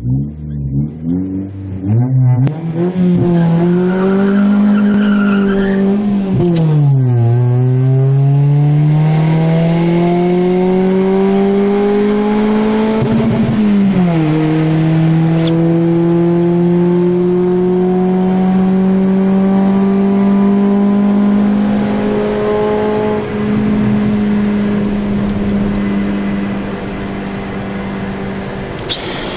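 Toyota Corolla 1.6 VVT-i four-cylinder engine with a cutout exhaust, accelerating hard through the gears. Its pitch climbs, drops sharply at two upshifts about 7 and 14 seconds in, then holds fairly steady as the car runs on at speed.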